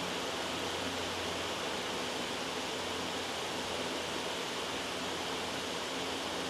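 Steady, loud white-noise track: an even hiss that does not change.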